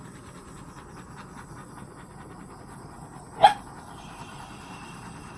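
A dog gives one short, sharp bark about three and a half seconds in, over a steady background hiss.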